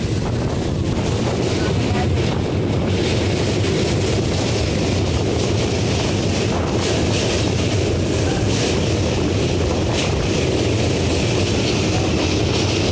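Train running across a steel truss railway bridge, heard from on board: a steady rumble of wheels on the rails, with a few faint clanks now and then.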